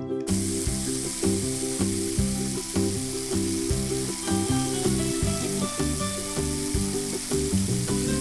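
A steady frying sizzle that starts abruptly just after the beginning, heard over background music with a repeating bass line.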